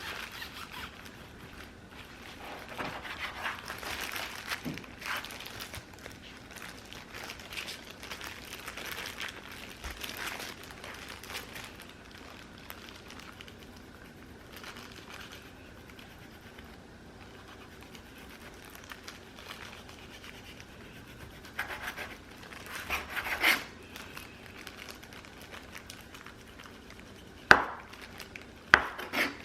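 Kitchen food-prep handling noises: uneven rustling and scraping that comes and goes, with two sharp knocks near the end.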